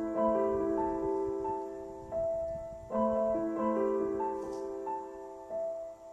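Soft background piano music: slow chords and a gentle melody of held notes, with a fresh chord struck about three seconds in.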